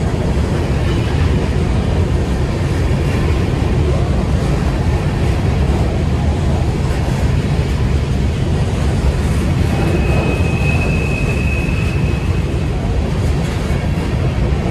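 A train running with a steady low rumble, and a brief thin high whine about ten seconds in.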